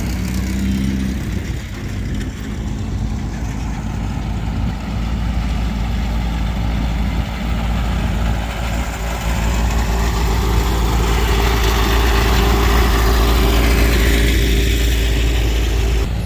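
Engines of parade vehicles running as they drive slowly past, a steady low rumble that grows louder from about ten seconds in as one passes close.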